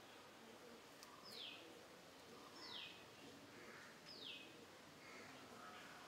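A bird calling faintly: a short, sharply falling whistle, three times, about a second and a half apart.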